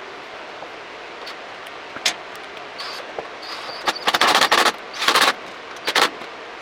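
Rapid ratcheting clicks in three short bursts, the longest first and the shortest last, after a single click, over a steady background hiss.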